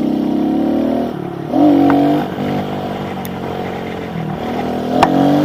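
Small pit bike's engine running under throttle. It revs up sharply about a second and a half in, holds, then eases off and picks up again near the end.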